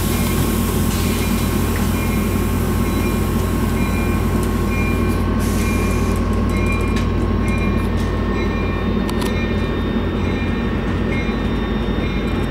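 Amtrak diesel passenger train running steadily with a deep engine drone as it pulls away from the station. Short high tones repeat over it at an even pace.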